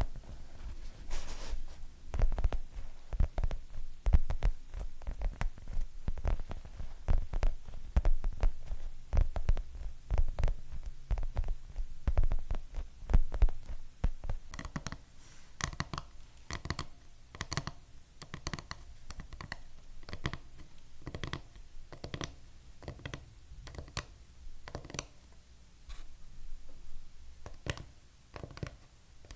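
Fingernails tapping rapidly and irregularly on hard objects. The first half is dense, deep, knocking taps. From about halfway, the taps turn sharper and clickier and come further apart.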